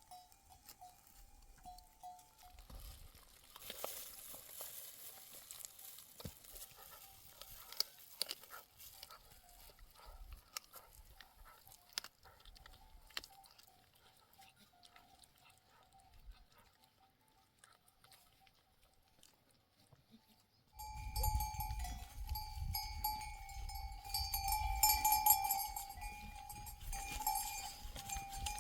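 Livestock bells on a flock clanking and ringing. They are faint and sparse at first, then much louder and busier from about 21 seconds in, with a low rumble underneath.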